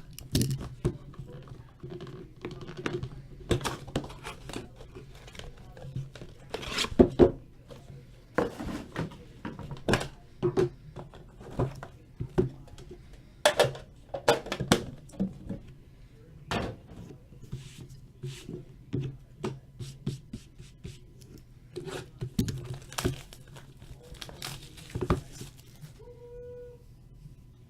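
Trading card box packaging being handled and opened: irregular knocks, rubs and tearing of cardboard and wrapping over a steady low hum. A short low beep sounds near the end.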